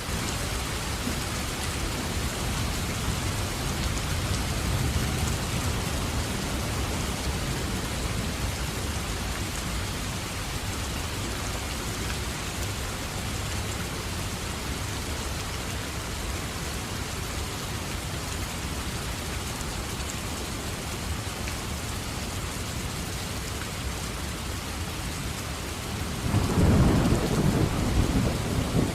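Steady heavy rain with low rolling thunder under it. Near the end a louder thunder rumble sets in suddenly.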